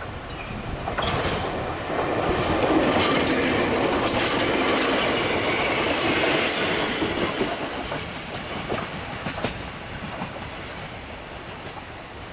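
Hokuriku Railroad 7700 series electric train (ex-Keio 3000 series) pulling away from the station and passing close by, its wheels clacking over the rail joints. It builds about a second in, is loudest for several seconds, then fades with a few last clicks.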